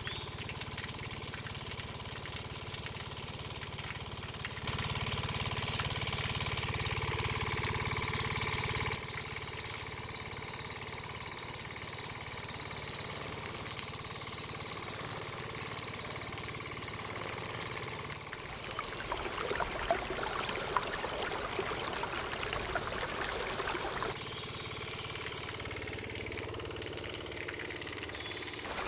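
Small electric motor of a miniature model tractor and water pump running steadily, with sudden jumps in level where the footage is cut.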